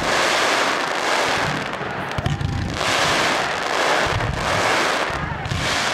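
Fireworks going off: dense crackling and hissing that swells and fades every second or so, with a few dull booms of bursting shells.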